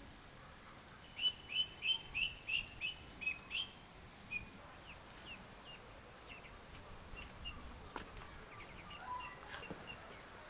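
A bird chirping outdoors: a quick run of about ten short, high chirps about a second in, then sparser, fainter chirps, over a steady high hiss.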